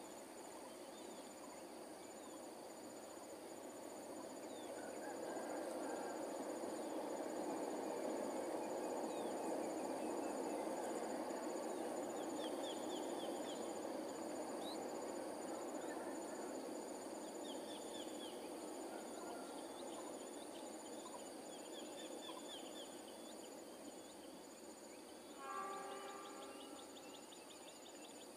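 Distant rumble of a passing passenger train hauled by a CC 206 diesel-electric locomotive, swelling in a few seconds in and fading slowly away. Steady insect drone and scattered high chirps run underneath, and a brief pitched call sounds near the end.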